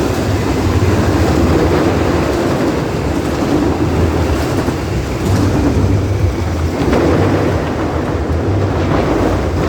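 Motorcycles circling the wall of death, their engines running loud and steady as one continuous rumble that swells and fades as they pass around the drum.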